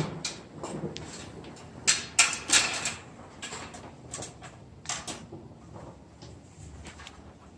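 Plastic parts of a ceiling cassette air conditioner clicking, knocking and scraping as they are unclipped and handled during disassembly, with sharp knocks about two to three seconds in and again about five seconds in.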